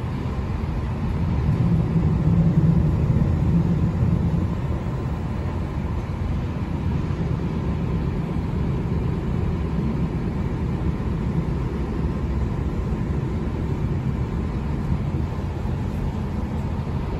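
Steady low rumble of a passenger train running along the track, heard from inside the carriage, a little louder a couple of seconds in.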